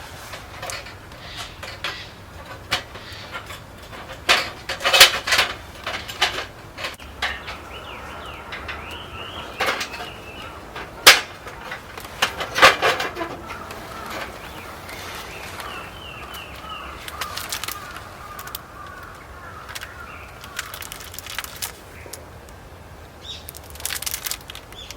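Birds calling in repeated short high notes and trills, with scattered sharp knocks and clatter, the loudest about five seconds in and around eleven to thirteen seconds in.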